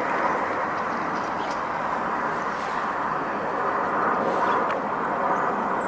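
Steady roar of distant traffic, with a few faint high chirps.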